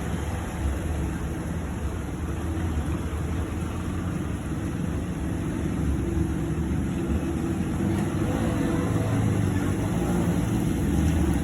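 A small motor vehicle's engine runs steadily against a noisy background. About halfway through, a steady engine tone comes in and the sound grows a little louder.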